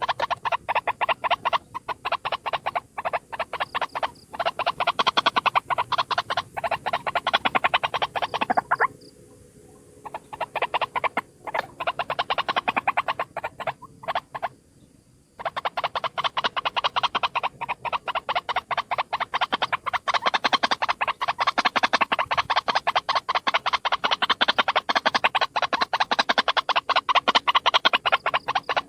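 White-breasted waterhen calling: a long run of rapid, rhythmic croaking notes that breaks off briefly about nine seconds in and again around fourteen seconds.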